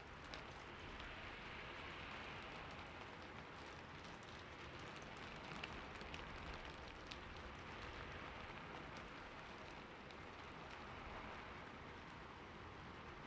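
Steady rain falling on a roof: an even hiss of many drops, with a few sharper individual drop taps scattered through it.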